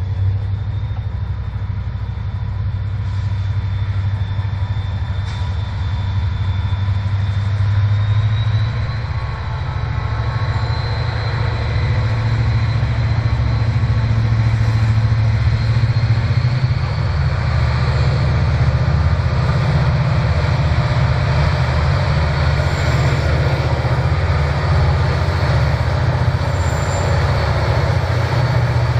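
Diesel-hauled freight train passing, the locomotives' engines making a strong low drone, with a thin, steady high whine above it; the sound grows louder about ten seconds in.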